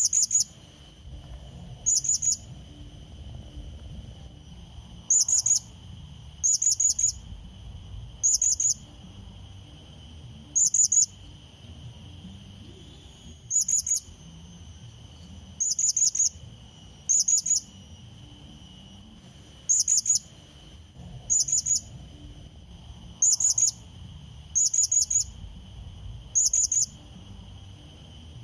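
Blue-crowned hanging parrot (serindit) calls used as a lure to draw a rival: short bursts of two to four sharp, very high chirps, repeated every second or two. A steady, faint, high insect-like whine runs underneath.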